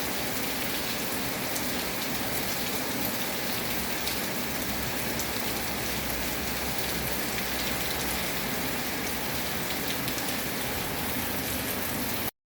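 Steady rainfall, an even hiss with scattered sharp drops ticking through it; it cuts off suddenly near the end.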